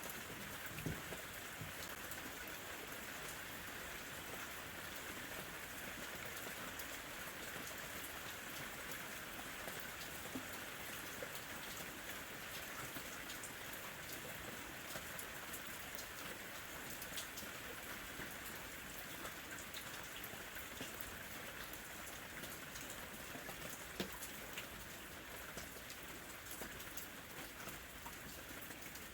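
Steady light rain falling, an even hiss with many separate drops ticking on a surface and a few louder drips.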